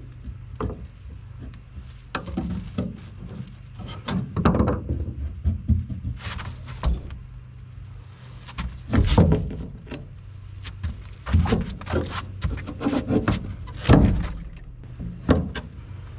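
Hammer blows on the bed floor of a pickup truck, coming in irregular clusters of knocks while a screwdriver is driven through the metal to open an access hole over the fuel pump.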